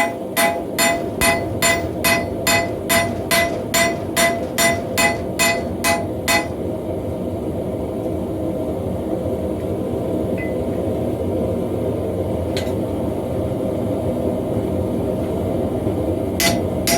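Hammer blows on hot steel over an anvil in an even rhythm of about two and a half strikes a second, each with a bright ring, as the forge-welded axe head is drawn out. The hammering stops about six seconds in, leaving a steady low roar, and starts again near the end.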